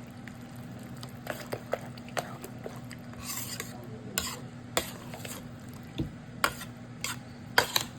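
A spoon stirring a pot of chicken pot pie filling, clinking and scraping against the pot at irregular moments, over a steady low hum.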